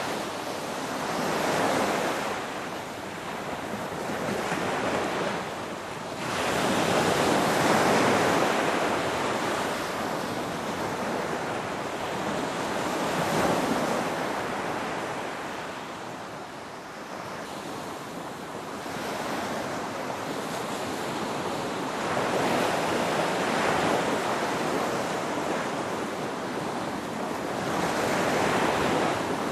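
Ocean waves breaking and washing onto shore, the surf swelling and falling back every few seconds.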